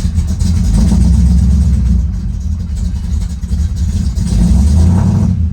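1968 Camaro's 327 small-block V8 running just after a cold start, its revs swelling up twice and settling back. It is running on all cylinders after a dead-cylinder misfire was fixed in the Pertronix electronic ignition, and sounds really good.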